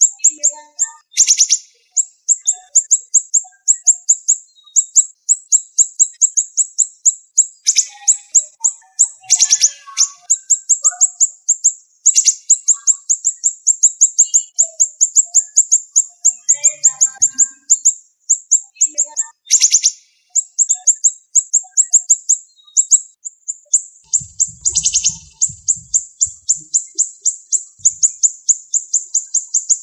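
Siri-siri bird singing in rapid, sharp, high-pitched chip notes packed close together, many to a second, in long runs with a few denser, louder bursts.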